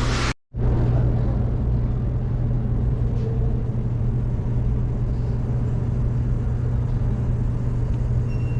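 A steady, unchanging low mechanical drone, like a machine or engine running, after a brief cut to silence just under half a second in.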